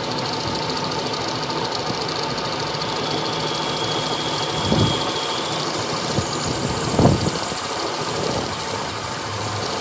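An engine running steadily, with two knocks, one just before five seconds in and a louder one about seven seconds in.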